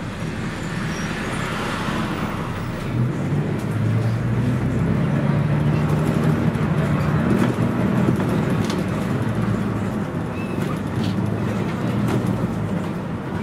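Scania CN113CLL city bus's DSC 11.71 diesel engine running, heard from inside the bus. Its low drone swells louder about three seconds in as the bus pulls under load, then eases off over the last few seconds.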